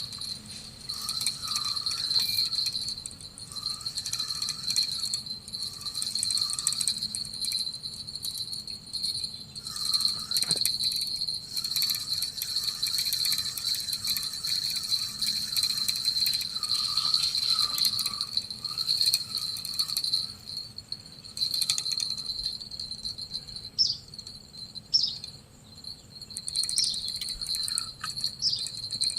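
Insects shrilling in one steady high-pitched drone, with a lower chirping call repeating in quick succession through much of it.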